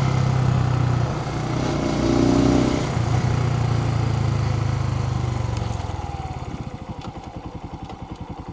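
Suzuki TU250X single-cylinder motorcycle engine running under way, heard through a microphone inside the rider's helmet along with wind and road noise. About six seconds in, the engine note drops and gets quieter, turning into a slow, even run of pulses as the bike slows.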